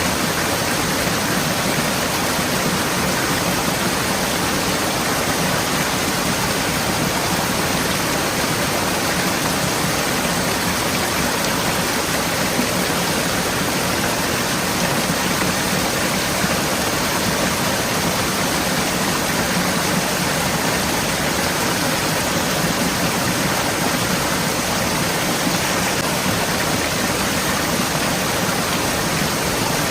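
Forest stream flowing and splashing in a steady, unbroken rush of water.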